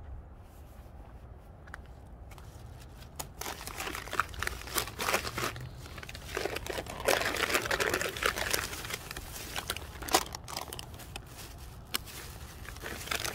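Bag and chip packet rustling and crinkling as a bag of chips and a pop are taken out and set down on a bench. Irregular crackling with sharp clicks, starting about three seconds in and busiest around the middle.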